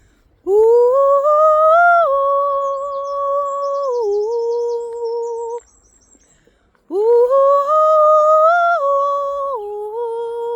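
Vocal toning: a voice holds two long sung tones, each about five seconds with a short pause between. Each tone scoops up at the start, steps a little higher, then settles lower. Faint bird chirps sound high above the voice during the first tone.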